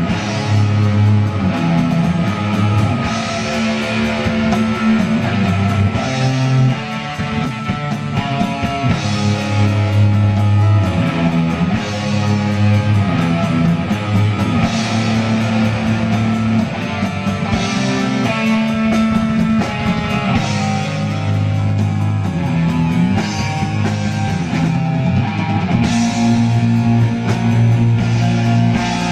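Live heavy metal band playing: electric guitar, bass and drum kit.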